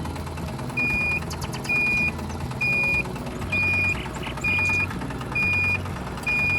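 Reversing alarm beeping, seven even high-pitched beeps about one a second, over a steady engine hum.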